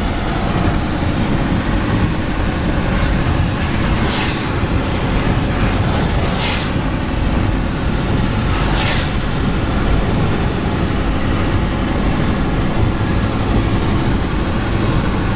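Steady road and wind noise of a moving car, a low rumble throughout, with three brief hissing swishes about two and a half seconds apart.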